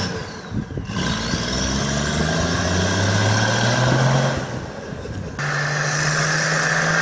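Toyota Land Cruiser 78's engine pulling hard, its revs climbing, dropping briefly at about half a second and again about four and a half seconds in, then climbing again, with a faint high whine rising alongside. After about five and a half seconds it holds a steadier note.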